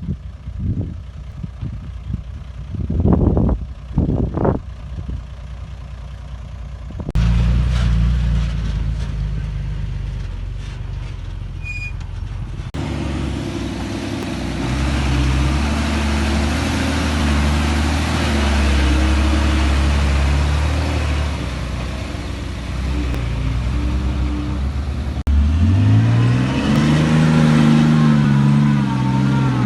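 Heavy diesel earthmoving machinery running under load, in several spliced clips that change abruptly about 7, 13 and 25 seconds in. A couple of short loud bursts come about three to four seconds in, and near the end an engine revs up and back down.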